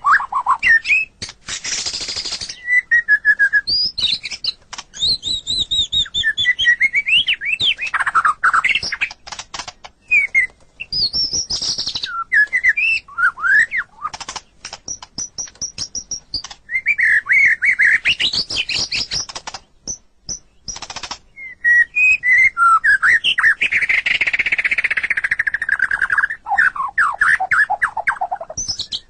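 White-rumped shama (murai batu) singing a long, varied song: loud fluty whistles, quick trills and harsh rasping notes in rapid phrases with short pauses between them.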